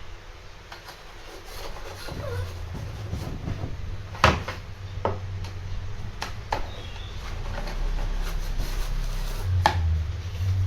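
Handling noises: a few sharp knocks, the loudest about four seconds in, with rubbing, over a low steady hum.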